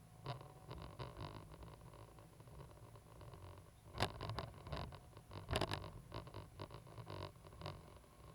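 Cat 320GC excavator's diesel engine running low and steady, with irregular clicks and scraping knocks over it, the loudest about four seconds in and again a second and a half later.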